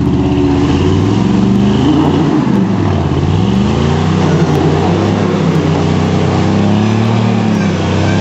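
Chevy pickup truck engine revving hard under load as the truck, stuck in a mud hole in two-wheel drive with a broken axle, tries to back out. The revs climb, sag about three seconds in, climb again and hold, then drop near the end.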